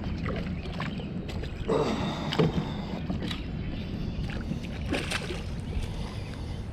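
Water and wind noise around a kayak as a hooked chain pickerel is handled beside it, with a few short knocks, about two seconds in and again near five seconds.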